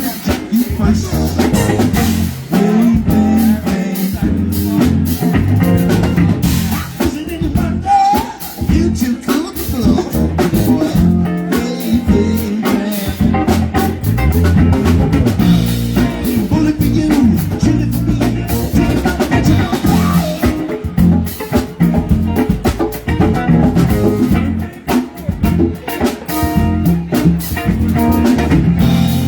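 Live band playing a song: drum kit with rimshots and guitar over a full, steady beat.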